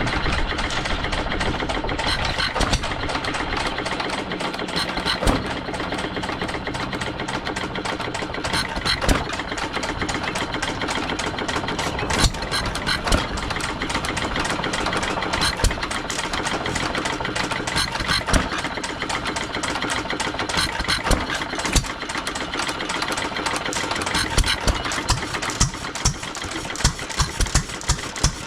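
Several antique single-cylinder stationary gas engines running together, their firing strokes overlapping in an irregular clatter of pops and knocks. Single sharp firing bangs stand out more clearly near the end.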